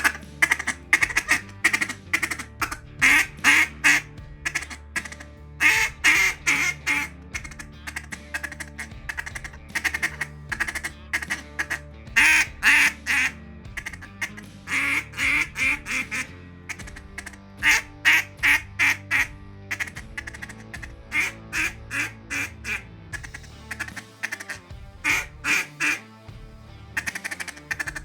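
Hand-blown duck call sounding loud, echoing series of quacks and quicker chuckle-like runs of short notes, in groups with uneven spacing. The uneven cadence is that of a beginner still learning to call.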